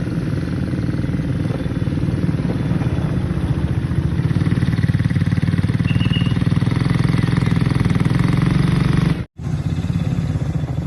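Small ATV engine running steadily, with a brief total dropout near the end.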